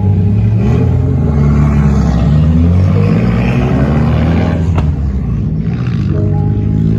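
Car engine running close by, its pitch rising and falling as the revs change.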